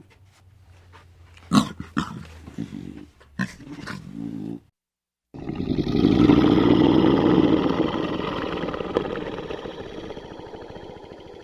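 Animal sounds: a few short grunts or snorts, then, after a brief break, one long roar of about six seconds that fades toward the end.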